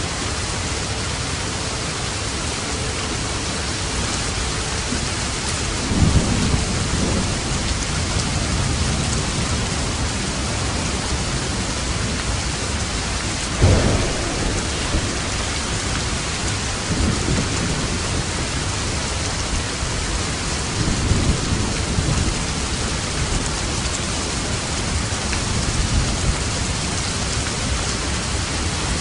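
Steady heavy rain hissing, with thunder rumbling several times: a rumble about six seconds in, a sharper, louder clap at about fourteen seconds, and softer rolls later on.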